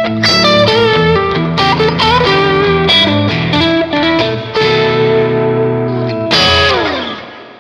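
Background music: a distorted electric guitar playing sustained notes, ending in a long downward pitch slide that fades out near the end.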